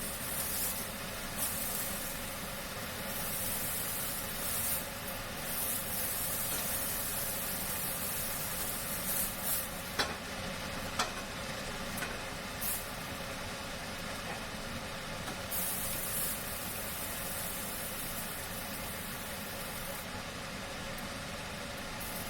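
Chicken wraps sizzling in a hot frying pan as they toast, a steady hiss with two sharp clicks near the middle.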